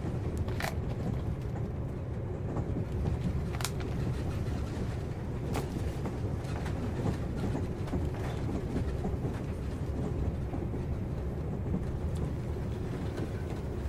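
Steady low rumble of a moving passenger train heard from inside the carriage, with a few short clicks on top.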